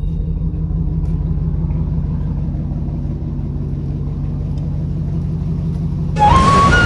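Vehicle engine idling with a steady low rumble. About six seconds in, a louder hiss starts with a tone that steps upward.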